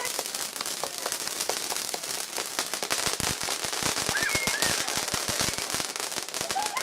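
Garden firework crackling: a rapid, dense rattle of small pops, thickest in the middle.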